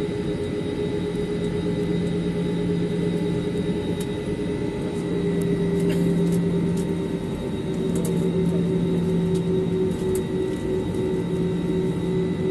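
Steady drone of a passenger jet's engines and rushing air heard from inside the cabin, with a constant low hum and a few faint clicks.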